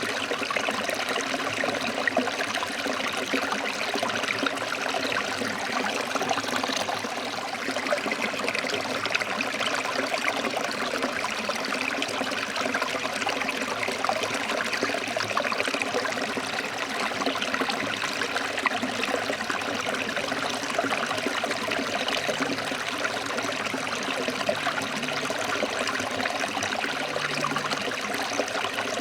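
A stream of water flowing and splashing over rocks, a steady rushing with fine bubbling detail and no pauses.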